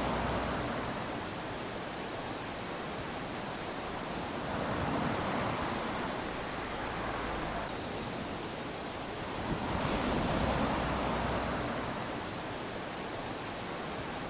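Small waves lapping onto a sandy shore, a steady wash of surf that swells and ebbs about every five seconds.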